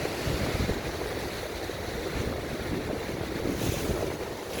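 Sea waves surging and washing against coastal rocks, with wind buffeting the microphone in low rumbling gusts.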